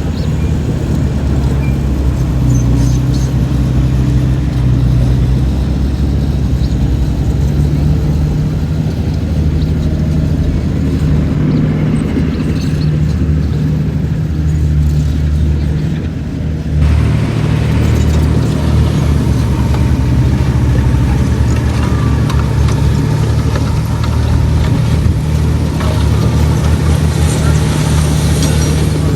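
Diesel engine of a Komatsu D31PX crawler bulldozer running steadily under load as it pushes dirt. The sound changes abruptly about two-thirds of the way through.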